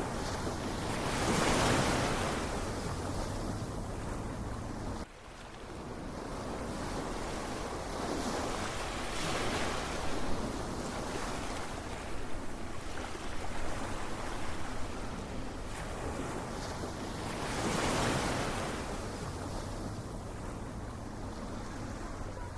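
Ocean waves washing in and breaking on the shore, the surf swelling and fading, with the bigger waves about every eight seconds. The sound dips suddenly about five seconds in and then builds back.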